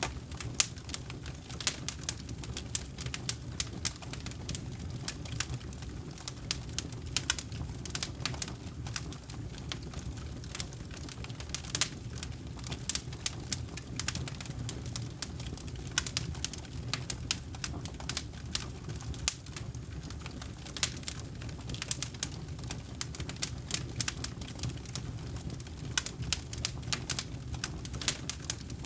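Wood campfire burning with a steady low rumble and frequent irregular crackles and pops of burning wood.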